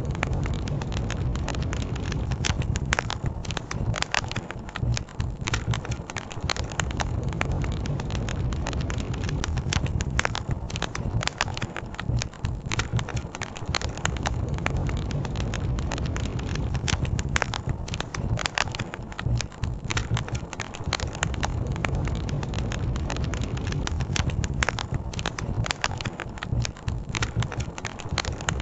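Campfire crackling and popping: many sharp irregular snaps over a steady low rumble.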